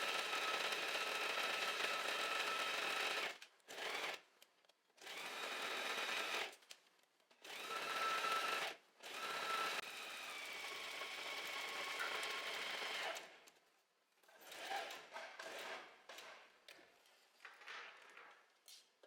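Domestic sewing machine stitching a jersey seam in stop-start runs: one steady run of about three seconds, then short bursts with pauses, then a longer, quieter run that stops about thirteen seconds in. After that come scattered small clicks and rustles of the fabric being handled.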